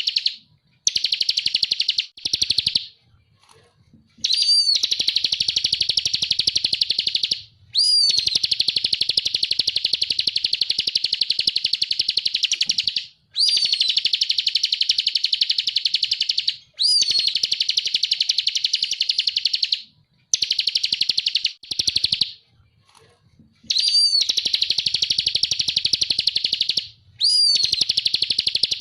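Ciblek (bar-winged prinia) singing its fast 'ngebren' song: long runs of rapid buzzing trill notes, each lasting a few seconds with brief pauses between, several opening with a short rising-then-falling whistle.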